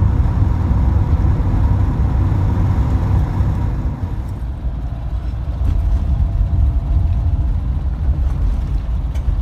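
VW bus with a new engine being broken in, driving along a road, heard from inside the cabin: a steady low engine and road rumble that eases briefly about four seconds in, then picks up again.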